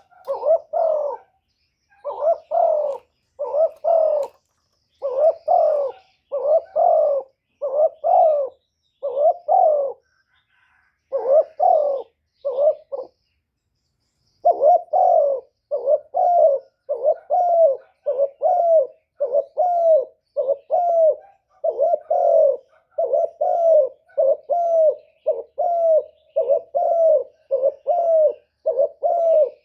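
Male spotted dove giving its bowing coo: a steady run of short coos, about one a second, with one brief pause just before the middle. This is the hard-driven display coo used as a lure call to provoke wild doves.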